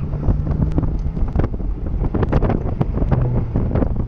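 Porsche Boxster RS60 Spyder's flat-six engine running as the open-top car is driven through an autocross cone course, under heavy wind buffeting on the microphone.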